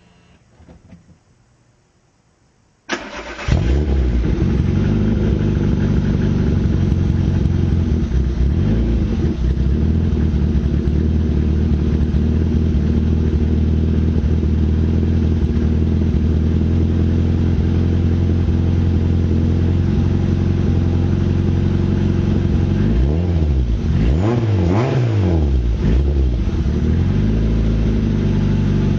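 Citroën AX 1.6-litre eight-valve engine cold-starting: after a brief crank it catches about three seconds in and settles into a steady fast cold idle. Near the end it is revved a few times in quick succession, the pitch rising and falling, before dropping back to idle.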